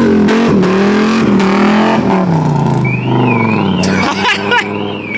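A just push-started Audi engine revving, held up in revs and then dropping back toward idle. About three seconds in, a high warbling alarm tone starts, swinging up and down about twice a second.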